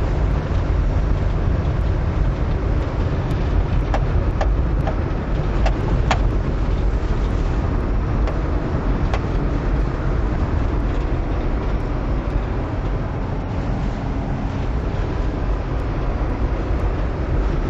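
Four-wheel-drive vehicle driving on a snow-covered road: a steady low rumble of engine and tyres, with a few short clicks about four to six seconds in.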